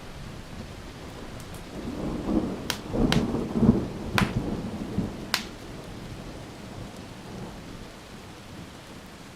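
A roll of thunder rumbles for about three seconds, loudest in the middle, over steady rain. A few sharp crackles from a wood fire cut through it.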